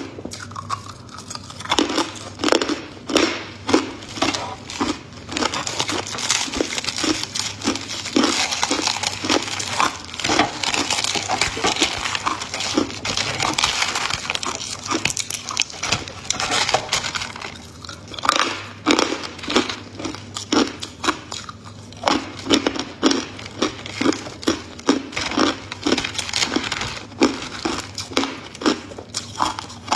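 A person biting and chewing hard ice close to the microphone, with a long run of sharp crunches. The crunching thickens into a steady crackle for a stretch in the middle, then breaks back into separate bites.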